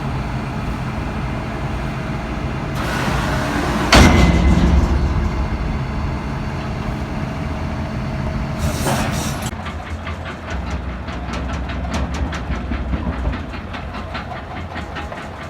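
Tractor and Krone round baler running steadily. A hiss builds and ends in a single heavy clunk about four seconds in, with a second short hiss near nine seconds. After that comes a fast run of rattling clicks.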